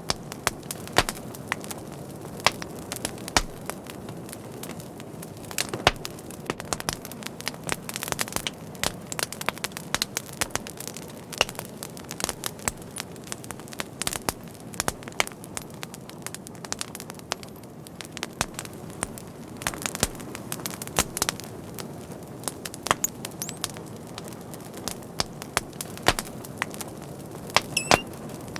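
A fire crackling, with frequent sharp pops at irregular intervals over a steady low hiss.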